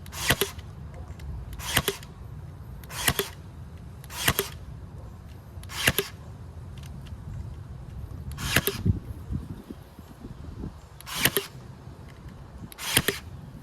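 Hand staple gun firing repeatedly, eight sharp snaps about one every one to two seconds with a longer gap near the middle, as the log is closed up.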